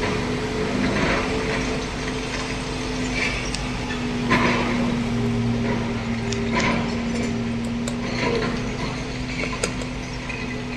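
Heavy diesel engine running steadily, with scattered knocks and clatters of stone and steel, as an excavator loads a dump truck.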